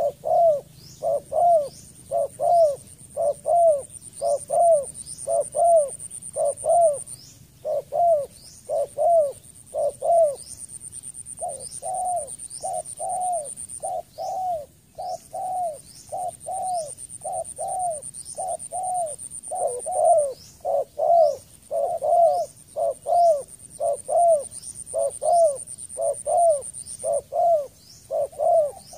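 Spotted dove calling over and over, short arched coos about twice a second with a brief break partway through. A thin, high steady whine sounds behind it, cutting in and out every few seconds.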